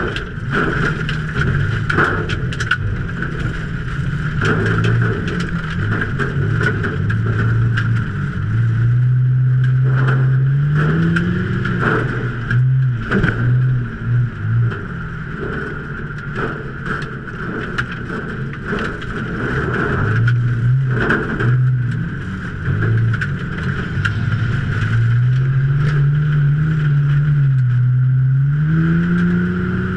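A Ford Taurus race car's V6 engine under racing load, heard from inside the car: its pitch climbs and falls in long sweeps as it accelerates and lifts. The sound breaks up into short on-off bursts twice, about twelve and twenty seconds in.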